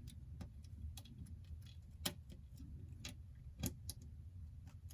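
Scattered small, sharp clicks and taps of tweezers handling small parts of an iPhone 8 during a screen repair, over a faint low hum.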